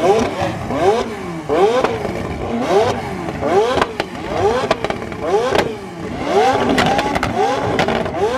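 Car engines being revved hard over and over in quick blips, the pitch shooting up and dropping back roughly once or twice a second, with a few sharp cracks among them.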